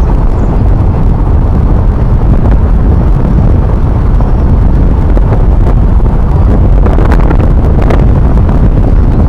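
Loud, steady rumble of a vehicle driving along a road, with wind buffeting the microphone.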